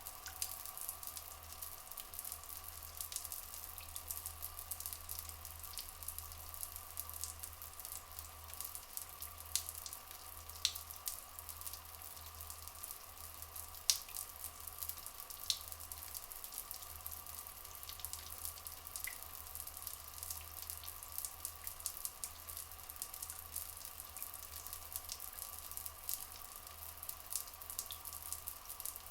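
Rainforest water ambience: a constant crackling trickle of water with scattered drips, a few of them louder, over a steady low hum and a faint steady tone.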